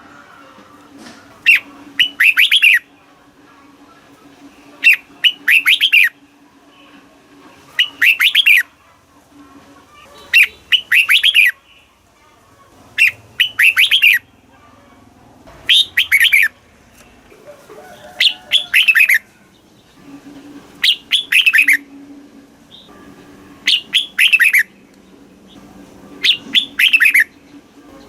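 Red-whiskered bulbul singing: short, loud phrases of quick, warbling notes, repeated every two and a half to three seconds. A faint low hum comes and goes beneath.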